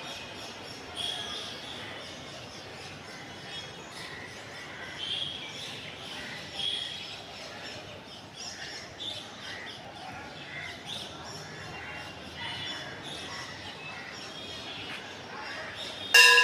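Birds chirping, short high calls scattered over a steady outdoor background hiss. A single loud ringing strike comes right at the end.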